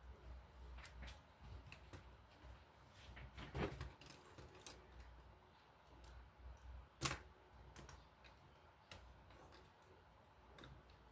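Lego plastic pieces being handled and pressed together: scattered small clicks, with a firmer snap about two-thirds of the way through.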